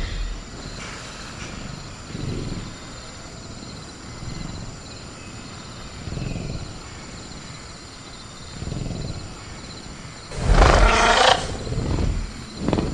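Designed velociraptor growl sound effect: a loud pitched growl about ten seconds in, followed by a shorter one, over a steady chirring of crickets. Faint low thuds come every couple of seconds before it.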